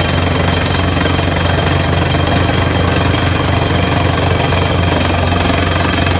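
Borewell drilling rig at work: rapid, steady hammering of the drill over the constant drone of the rig's engine.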